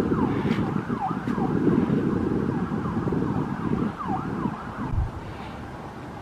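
Distant emergency-vehicle siren in a fast yelp, its pitch sweeping down about three times a second, over a loud low rumble that drops off about five seconds in.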